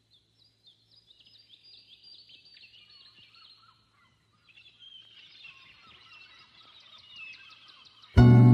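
Small birds chirping faintly in a rapid run of short, high, downward-gliding chirps. Loud music with strong low notes starts abruptly just before the end.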